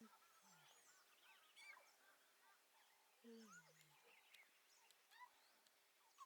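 Faint morning bird chorus: many small chirps and short whistled notes from several birds. About three seconds in there is a low call that drops in pitch over most of a second, and a shorter one like it near the start.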